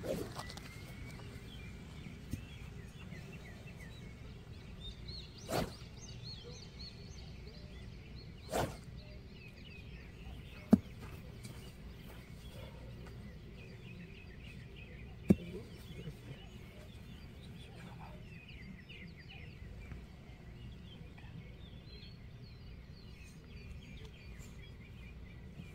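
Birds chirping and singing in open-air ambience, with two dull knocks and then two sharp clicks scattered through the middle.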